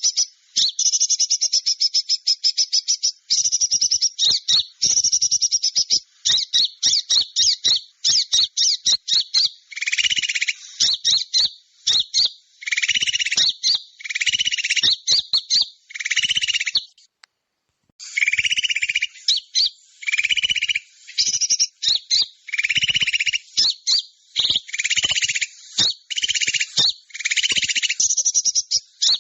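Lure recording of small songbirds calling: fast, high chips and buzzy trills crowded together. The sound cuts out completely for about a second around the middle, then starts again.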